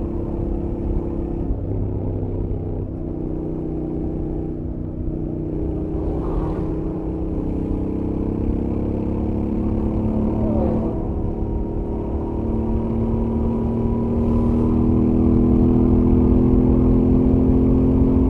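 Stock Royal Enfield Interceptor 650 parallel-twin with its stock exhaust, heard from the rider's helmet while cruising on the highway. The engine note holds steady, shifts pitch a couple of times, and grows louder over the last several seconds as the bike pulls harder.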